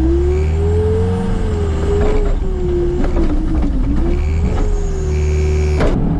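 John Deere skid steer's engine revving up at the start, then running hard with a whine that wavers in pitch as the machine works. A single sharp clank near the end.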